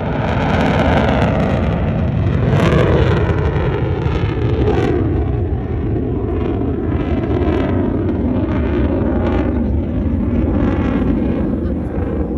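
Loud jet noise from a fighter jet. It comes up sharply at the start and stays loud, with a low rumble under a rushing hiss and repeated sweeping whooshes.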